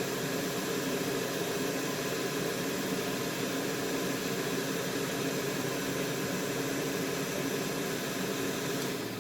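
Steady whoosh of fan-driven air from soldering bench equipment, with a faint low hum, dying away about nine seconds in.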